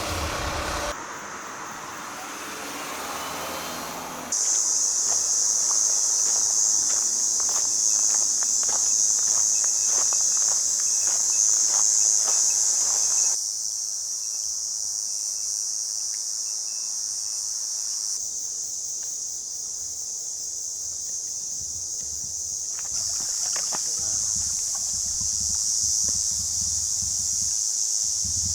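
Steady, high-pitched insect chorus shrilling without a break. It arrives after a quieter opening of a few seconds and changes level abruptly a few times where clips are cut together.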